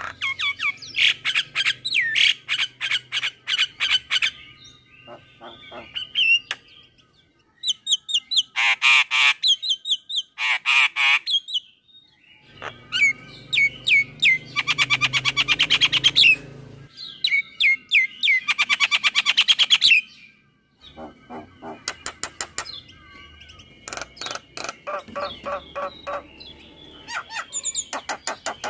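Male Javan myna singing a varied, chattering song: fast rattling runs of repeated notes, trills and harsh squawky calls, in bursts of a few seconds broken by short pauses.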